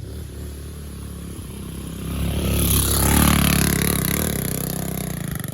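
Small pit bike engine revving as the bike rides past on a dirt track, growing louder about two seconds in, loudest around three seconds, then fading away.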